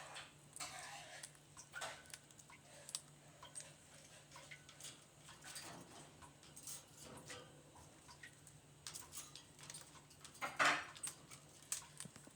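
Pet bird cracking and husking seeds in its beak: irregular small clicks and crunches, with one louder burst of noise about ten and a half seconds in.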